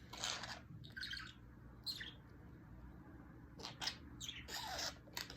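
Pet budgerigar chattering softly in a string of short, high chirps and squeaks at uneven intervals.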